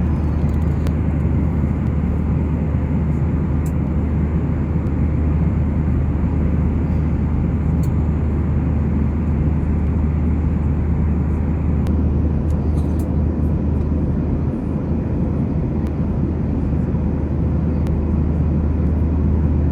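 Steady in-flight cabin noise of a Boeing 737-800: an even rush of airflow over the drone of its CFM56-7B engines, with a strong low hum underneath.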